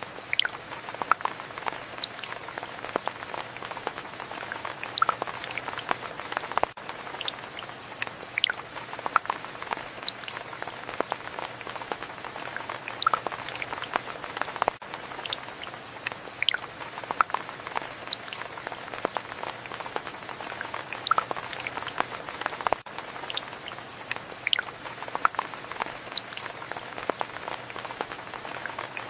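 Rain falling steadily: an even hiss with many single drops striking close by as sharp, irregular ticks.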